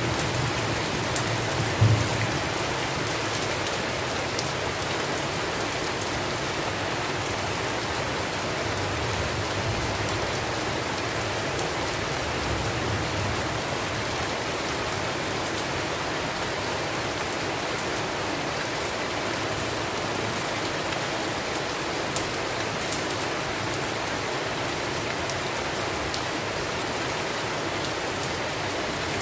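Steady rain falling on a surface, an even hiss throughout. A low rumble of thunder runs through roughly the first half, with a louder peak about two seconds in.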